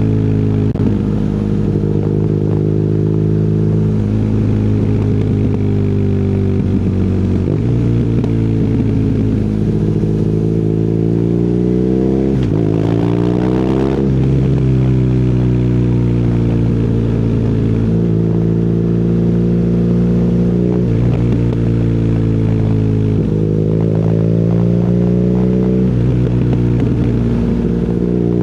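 BMW R nineT's air/oil-cooled boxer twin running through an Akrapovic exhaust while riding. The engine note sinks slowly as revs fall and climbs again with each opening of the throttle, with a sharp rev rise about halfway through and another near the end.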